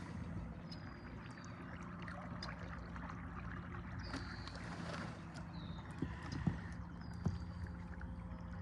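Electric trolling motor on a kayak humming steadily at its fifth speed setting during a sharp turn, with water washing along the hull. A couple of light knocks about six and seven seconds in.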